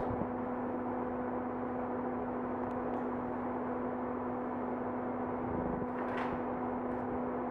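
Steady electrical hum with a faint hiss: room tone.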